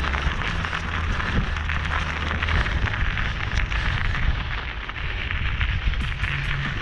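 Wind buffeting the microphone during a bike ride, a low rumble under a steady crackling hiss.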